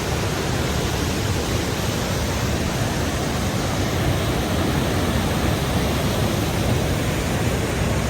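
Waterfall with fast-falling water pouring down: a loud, steady rushing noise with no break.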